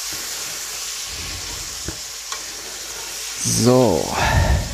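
Tomatoes and onions sizzling steadily in hot oil in a pressure-cooker pot, with a couple of light clicks about two seconds in.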